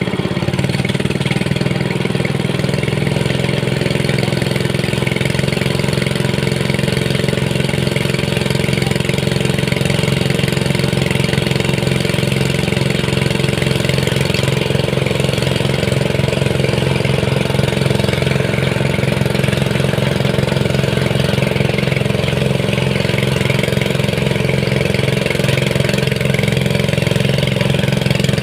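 Small engine running steadily at a constant speed, a continuous mechanical hum.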